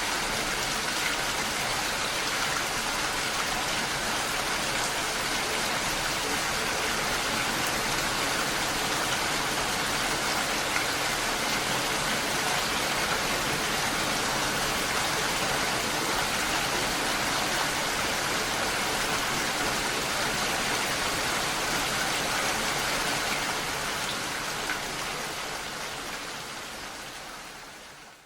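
Steady gentle rain falling, an even hiss of drops, which fades out over the last few seconds.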